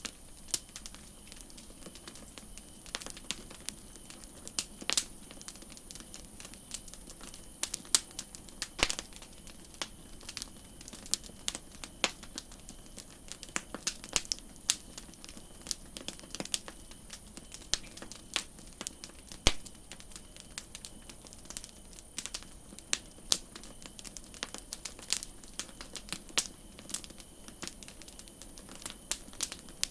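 Campfire crackling: irregular sharp pops and snaps from burning wood over a faint steady hiss.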